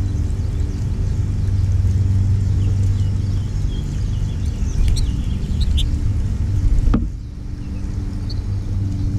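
A steady low mechanical rumble with a hum, like a motor running, under a few short high bird chirps in the middle. A sharp knock sounds about seven seconds in, and the rumble dips briefly after it.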